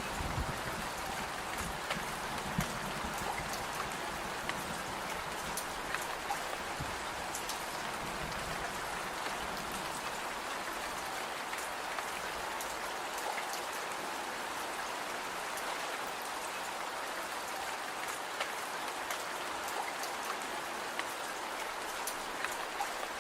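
Steady rain falling, a constant hiss dotted with many small sharp ticks of individual drops.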